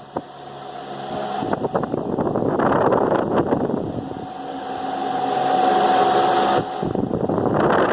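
Ventisol MX 60 cm 200 W wall fan running: a rush of air over a steady motor hum with several evenly spaced tones. The rush swells and fades, a thin whine rises in the middle, and the level drops suddenly about six and a half seconds in.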